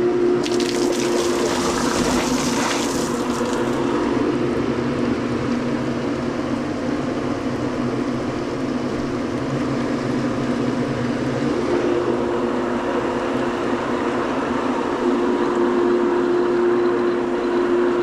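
Swimming pool pump running with a steady whine while water churns through it during priming, with a stronger hiss of rushing water for the first few seconds.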